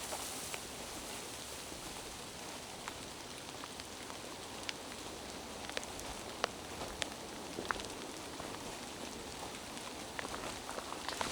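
Steady rain falling, with scattered sharper drops ticking close by, a few in a quick cluster near the end.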